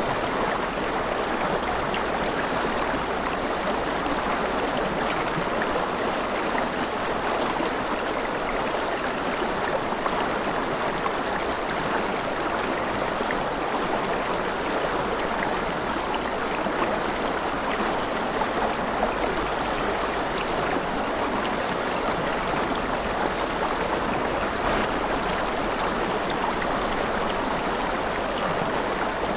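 River water flowing steadily, with a constant splashing, gurgling rush.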